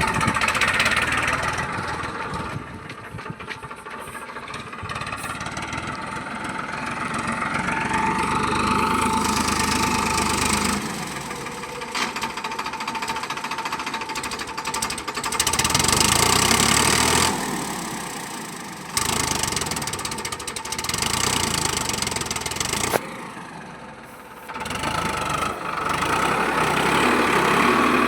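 Tractor diesel engine running, its level and pitch shifting abruptly several times.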